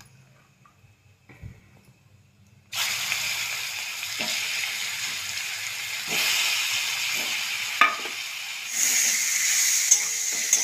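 After a near-silent pause of almost three seconds, boiled bitter gourds stuffed with ground masala drop into hot tempered oil in a kadhai and start sizzling loudly. The sizzle keeps going, broken by a few sharp knocks of a spatula against the pan as the gourds are turned, and it swells again near the end.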